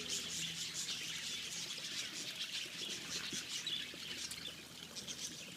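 A flock of budgerigars (budgies) chirping and chattering, many short overlapping calls at once.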